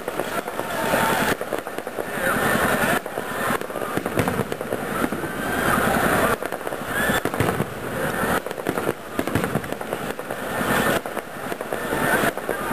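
Fireworks display: a dense, continuous run of bangs and crackles, with voices underneath.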